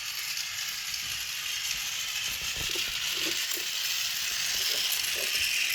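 Battery-powered toy train running, a steady whirring rattle that grows slightly louder, with a few faint knocks.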